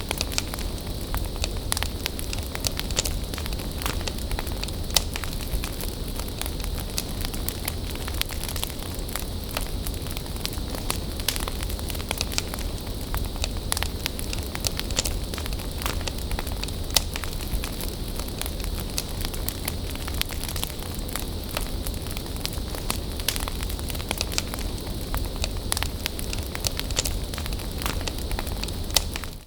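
Wood bonfire burning: a steady hiss of flames with frequent small crackles and snaps of the burning wood, and a few louder pops.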